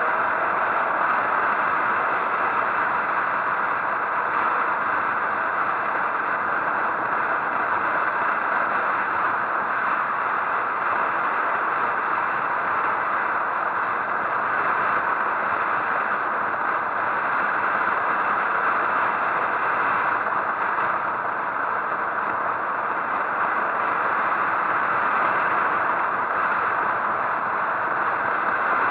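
Steady rushing wind and road noise of a motorcycle ride on the microphone, with no clear engine note.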